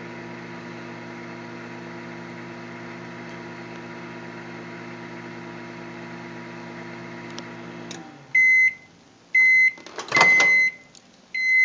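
Microwave oven running with a steady hum, which stops about eight seconds in at the end of its 30-second cycle. The oven then beeps four short times, with a louder clatter around the third beep.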